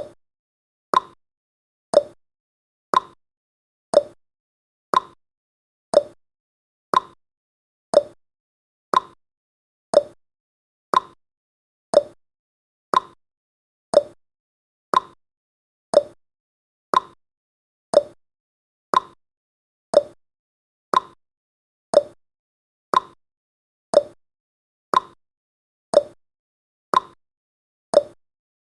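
Clock-tick sound effect of a countdown timer, one short sharp tick every second, evenly spaced throughout.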